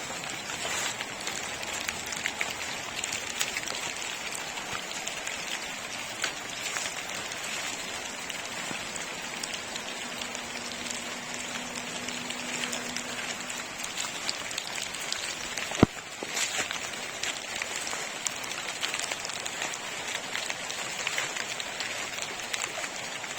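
Water flowing and splashing in a steady, even rush, with a single sharp click about two-thirds of the way through.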